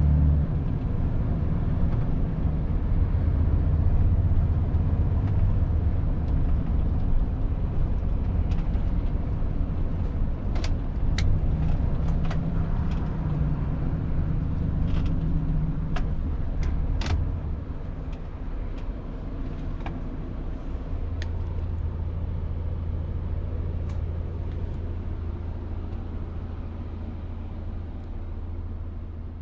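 Volvo FH 500 truck's 13-litre six-cylinder diesel running, a deep low rumble heard from inside the cab, with a few sharp clicks and rattles around the middle. About two-thirds of the way through it drops to a quieter, steadier hum.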